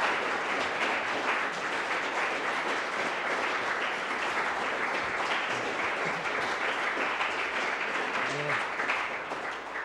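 Audience applauding steadily after a sound-poetry piece, with a voice briefly heard through it near the end.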